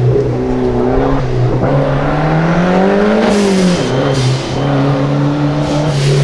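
Rally car engine running hard on a stage. The engine note holds steady, climbs for about a second and a half, drops sharply about three and a half seconds in as the driver lifts or shifts, then holds steady again.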